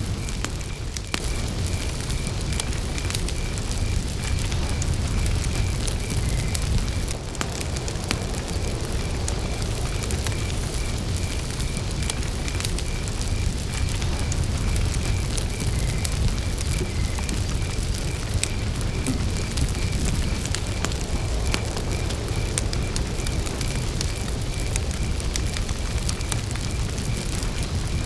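Wood campfire burning with a low rumble and scattered crackles and pops. Steady rapid chirping of crickets runs beneath it.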